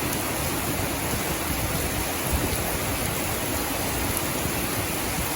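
Heavy tropical rain pouring down steadily, an even hiss of rain hitting hard surfaces and running water.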